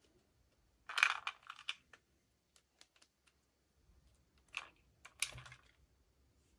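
Small hard plastic pieces clicking and rattling as a miniature toy and its packaging are handled. The clicking comes in a cluster about a second in, then in two short bursts near the end.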